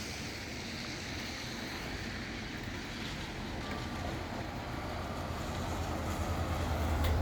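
Steady storm wind and rain hiss, with a low rumble building over the last couple of seconds.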